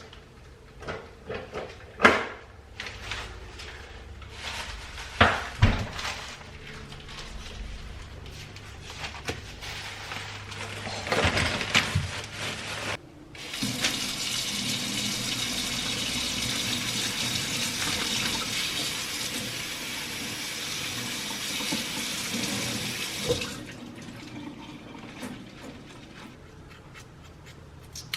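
Water tap running into a sink for about ten seconds, turned on about halfway through and off again abruptly. Before and after it come scattered knocks and clatter of things being handled.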